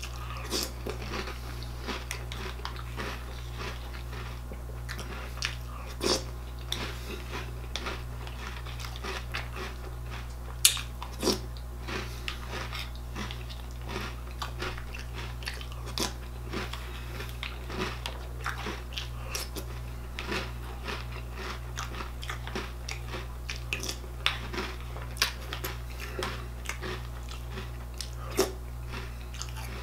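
A person chewing and crunching mouthfuls of cereal, a mix of Reese's Puffs and cinnamon squares, heard up close, with scattered sharper crunches and clicks; the loudest comes about ten and a half seconds in. A steady low hum runs underneath.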